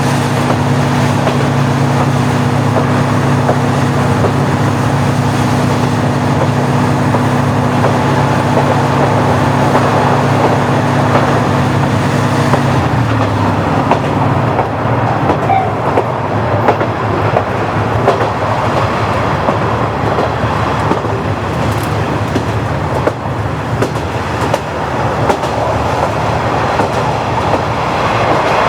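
KiHa 40-series diesel railcar with its original DMF15HSA engine running steadily under power. About halfway through, the engine note drops and fades away, leaving the rumble of the running train with wheels clicking over rail joints.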